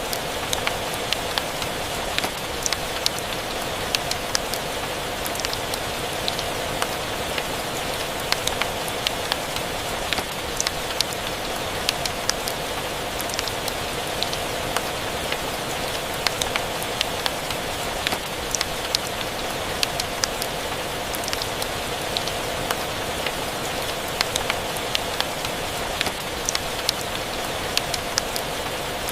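Steady rain mixed with a crackling wood fire: an even hiss of rain dotted with frequent short, sharp pops.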